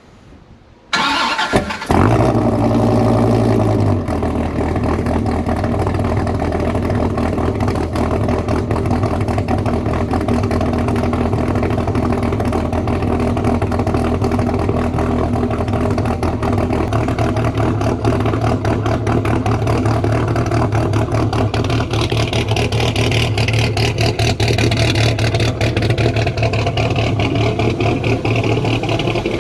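Dodge Viper GTS's 8-litre V10, straight-piped through headers and side pipes with no catalytic converters, being cranked and catching about two seconds in. It runs a little faster at first, then settles to a steady, loud idle about four seconds in.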